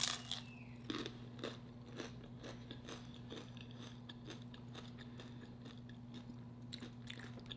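A person biting into a crunchy homemade tortilla chip close to the microphone, then chewing it: a sharp crunch at the start, followed by soft, irregular chewing crunches. A faint steady hum lies underneath.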